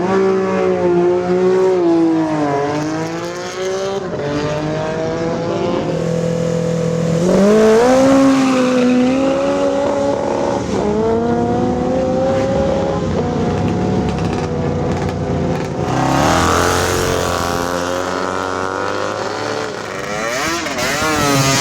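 Classic sprint motorcycle engines revving and accelerating, their pitch repeatedly dropping and climbing. A denser, wavering stretch of engine noise comes near the end.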